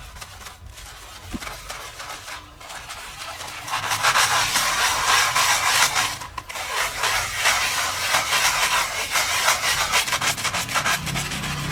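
Scrubbing with a stiff brush on a dirty car surface, in rapid scratchy strokes. It is quieter at first, then becomes loud and vigorous from about four seconds in, with a brief pause around six seconds.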